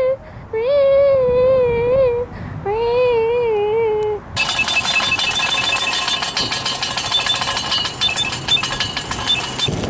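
A person's voice hums or sings two long notes that waver up and down in pitch. Then, suddenly, a steady hiss with faint, regularly repeating high tones takes over and cuts off just before the end.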